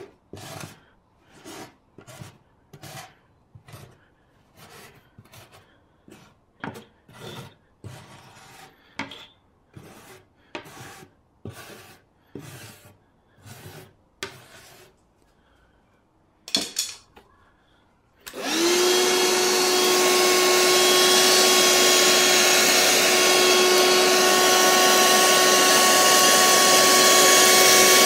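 Rhythmic scraping strokes, about one a second, like hand-sawing wood to make dust. Then a Ryobi 18V ONE+ cordless hand vacuum switches on about two-thirds of the way in and runs loud and steady with a constant whine.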